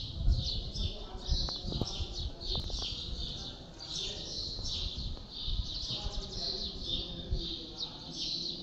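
Many small birds chirping continuously in quick, overlapping, high-pitched notes, over a low uneven rumble.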